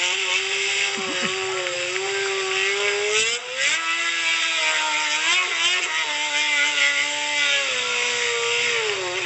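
Sport motorcycle engine held at high revs during a rear-wheel burnout, the tyre spinning on the spot. The pitch climbs about three and a half seconds in, steps down later and drops away near the end.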